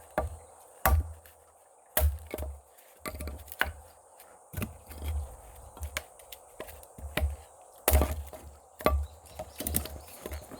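Wood being chopped with a blade: a run of sharp, irregular chopping strikes, about one a second, some with a dull thud beneath.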